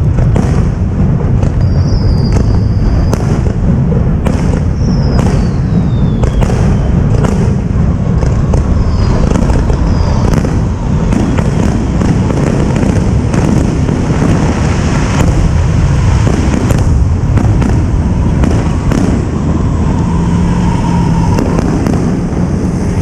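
Fireworks display: a dense, continuous barrage of aerial shell bursts and booms over a steady low rumble. Several whistles fall in pitch.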